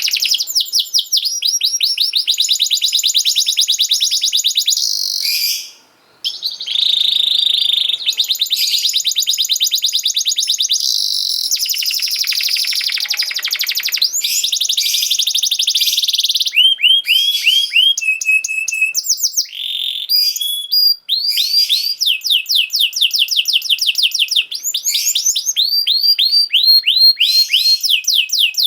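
Domestic canary singing a long song of fast trills and rolls, runs of quickly repeated high notes that change pattern every few seconds, with a brief break about six seconds in.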